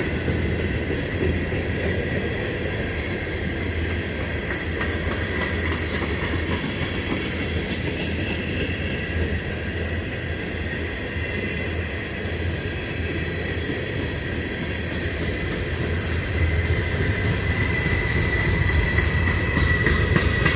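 Freight cars rolling past on the rails: a steady rumble of wheels with a thin, high steady squeal and occasional clicks over the rail joints, growing a little louder near the end.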